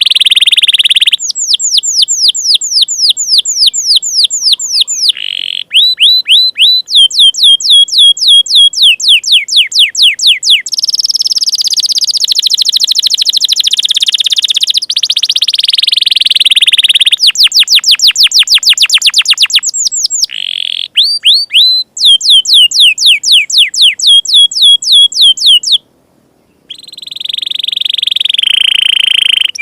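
Canary singing loudly: fast trills of repeated downward-sweeping notes, several a second, alternating with long rolling phrases, broken by a brief pause near the end. This is the 'door' song type that keepers use as material for tutoring young canaries.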